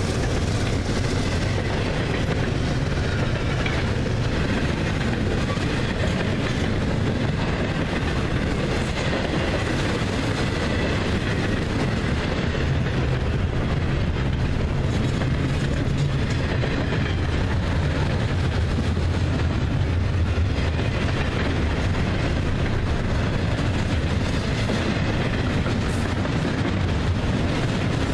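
A double-stack intermodal freight train's container well cars rolling past, their steel wheels running on the rails in a steady, unbroken rumble.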